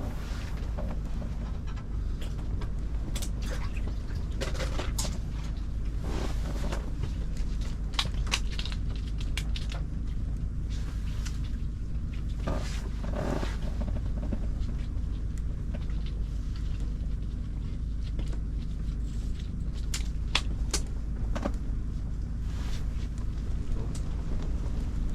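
Wind rumbling on the microphone throughout, with scattered short clicks and knocks at irregular moments.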